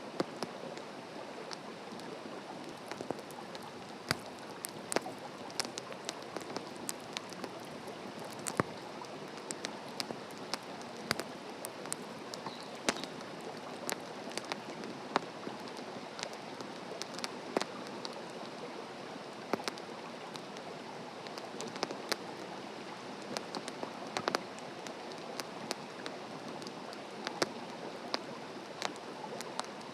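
Wood campfire burning on the ground, crackling with irregular sharp pops over a steady hiss.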